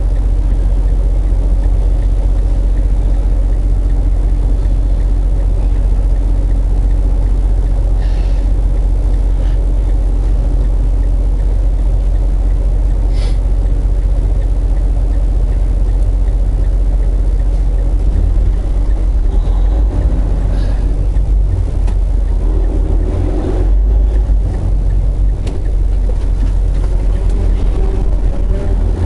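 Semi truck driving down the road, heard inside the cab: a steady low engine drone and road rumble, with a few faint short knocks.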